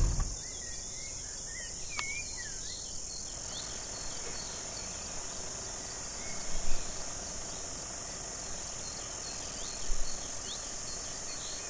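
Steady high-pitched insect chorus of the African bush, with scattered short bird chirps and whistles. A click about two seconds in and two brief low bumps, at about six and a half and ten seconds, stand out.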